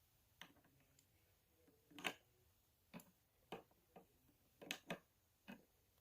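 Faint, irregular light taps and clicks, about eight in all, of small toys being handled and set down.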